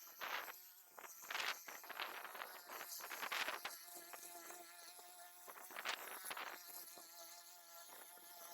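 A small engine drones steadily at an even pitch, with several short noisy scrapes or sweeps over it.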